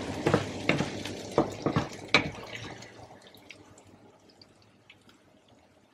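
A wooden spatula stirs and knocks through thick chili paste (sambal terasi) frying in oil in a pan, with a wet crackle and sharp taps. After about three seconds the stirring stops, leaving only faint scattered pops.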